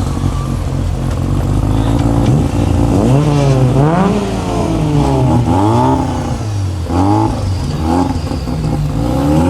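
Car engine running through a loud exhaust, held steady at first, then revved up and down about six times in quick succession from about three seconds in.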